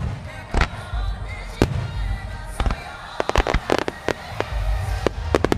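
Star mine fireworks display: aerial shells bursting with sharp bangs, single reports about a second apart, then a rapid cluster of bangs just past the middle and two more near the end, over a song playing for the synchronised show.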